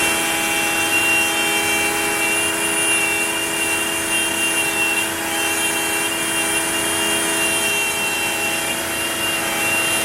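Router spindle of a Onefinity CNC machine running steadily while carving into a wooden board: a constant high whine with the hiss of the bit cutting wood.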